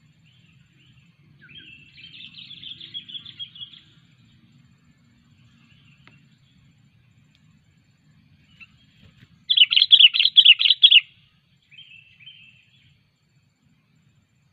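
Sooty-headed bulbul (kutilang) calling: a twittering phrase early on, then a loud quick run of about six notes, followed by a short chirp.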